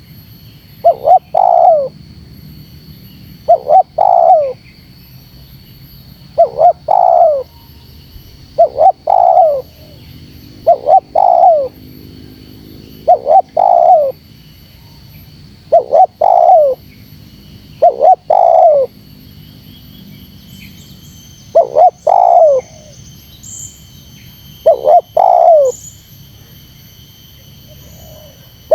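Spotted dove cooing: a short, hoarse two- or three-note coo phrase repeated at an even pace, about once every two and a half seconds, in the rapid, insistent call used to challenge a rival. A faint steady high-pitched whine runs underneath.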